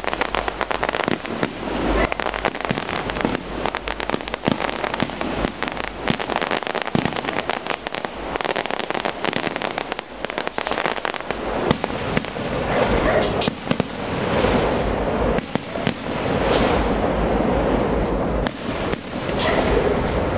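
Fireworks display: aerial shells bursting in the sky with dense, rapid crackling, and a few louder bursts in the second half.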